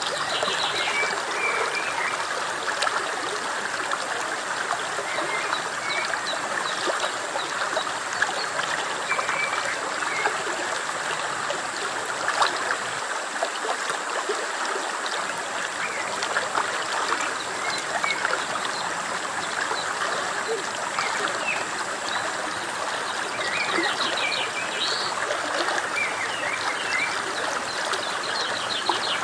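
Stream water flowing and trickling steadily, with short high chirps now and then.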